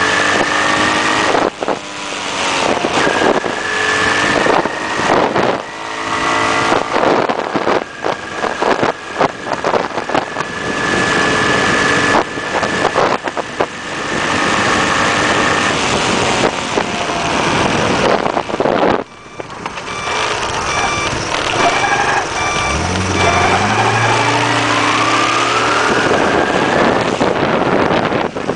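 Honda CT110 postie bike's small single-cylinder four-stroke engine running under way, its pitch climbing several times as it revs up through the gears, with a short lull about two-thirds of the way through. Wind rushes over the microphone.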